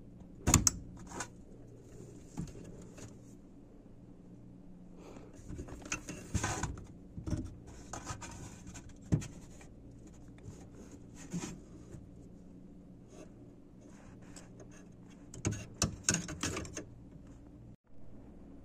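Scattered clicks, knocks and short scrapes of parts and tools being handled during repair work on a dishwasher, over a steady low hum. The loudest knock comes about half a second in, and there is a quick cluster of clicks near the end.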